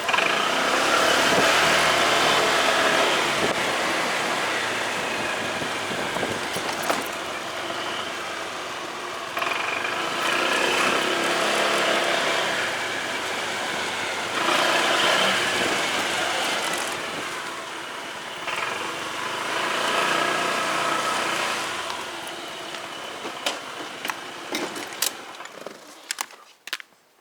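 Motorcycle being ridden, its engine and the rushing wind rising and falling with several accelerations. Near the end the sound dies away, leaving a few sharp clicks.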